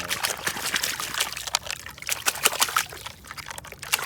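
Water splashing and trickling in quick, irregular spatters as a plastic toy truck is rinsed by hand in shallow drain water.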